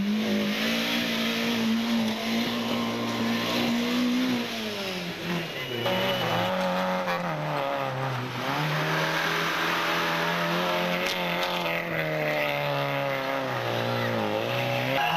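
Rally car engine at high revs, held steady for about four seconds, then the revs drop and climb again several times.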